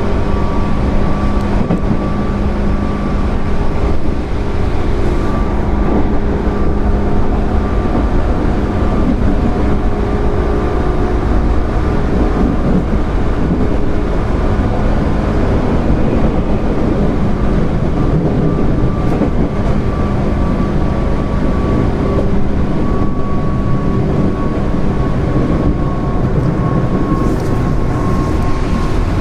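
JR 205 series 0 electric train under way: a steady rumble of wheels on rail with a steady hum, the higher hum easing slightly lower in pitch near the end.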